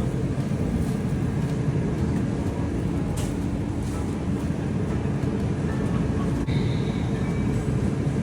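Steady low hum and rumble of supermarket background noise, with a faint steady tone underneath and a couple of soft clicks.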